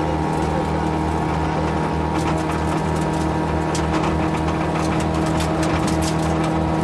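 Yugo rally car's four-cylinder engine heard from inside the cabin, holding steady revs with an unchanging note. Scattered sharp clicks and knocks sound over it.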